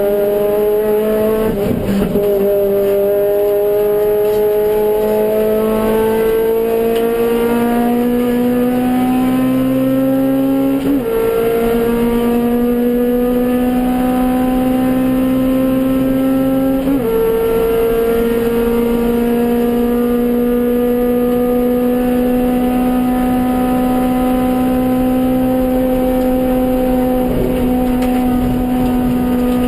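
Suzuki Swift GTi's G13B four-cylinder race engine pulling through the gears under full throttle, its note climbing steadily in each gear and dropping at upshifts about 2, 11 and 17 seconds in. In the last gear it holds a high, almost steady note that rises only slowly.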